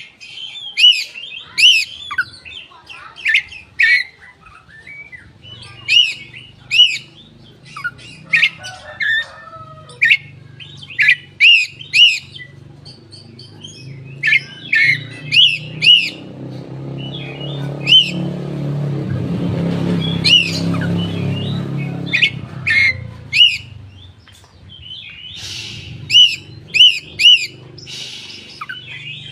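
Koci bird calling: sharp, high chirps in quick pairs and clusters, repeated every second or so. A low rumble swells and fades in the middle, over a faint steady hum.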